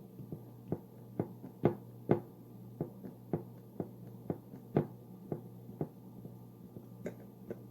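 Repeated light knocks and taps, irregular at about two a second, as a puff pastry border is pressed down onto a chicken pot pie; a steady low hum lies underneath.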